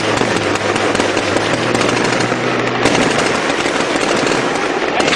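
Sustained rapid automatic gunfire, a dense unbroken rattle of shots, over a steady low hum.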